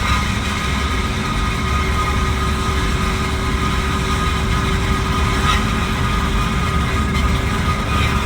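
2018 Jeep Renegade making a loud, steady grinding noise: a low rumble with constant tones over it. It is a rare fault of unknown cause that the owner says comes on only once or twice a year.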